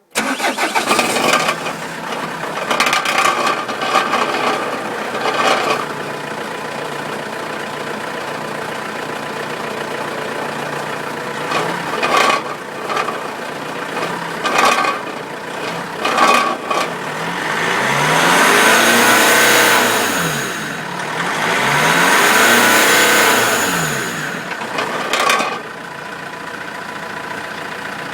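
Renault Grand Espace IV engine starting and idling, blipped up briefly several times and then revved twice for a few seconds each, pitch rising and falling, near the end. The exhaust rattles with the revs: a defective catalytic converter with loose internals.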